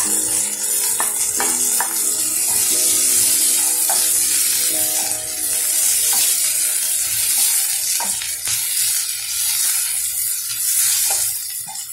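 Sliced red onions and chopped garlic sizzling in olive oil in a nonstick frying pan, with a steady frying hiss. A wooden spoon stirs them, with scattered clicks and scrapes against the pan.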